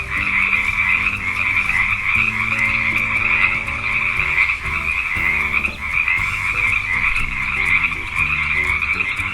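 Frogs croaking in a continuous, dense chorus that holds steady throughout, with a light music bed of stepped low notes underneath.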